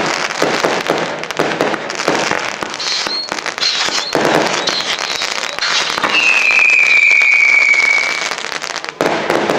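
Fireworks crackling and popping in a dense, continuous rattle. About six seconds in, a whistling firework sounds a high whistle for about two seconds, falling slightly in pitch.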